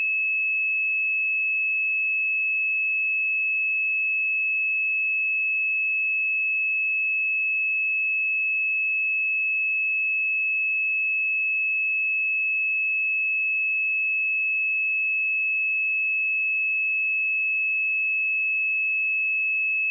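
Pure 2593 Hz sine-wave test tone, a single steady high-pitched tone at constant level.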